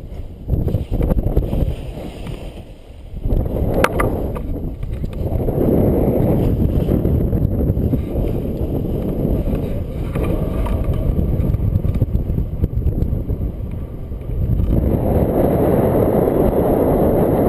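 Strong gusty wind buffeting the microphone, rising and falling with the gusts: briefly easing about three seconds in and blowing harder from about fourteen seconds in, with a single sharp click near four seconds.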